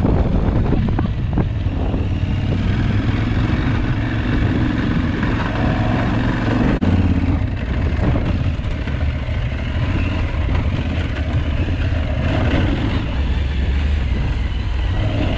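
Aprilia Tuareg 660's parallel-twin engine running steadily as the motorcycle is ridden off-road.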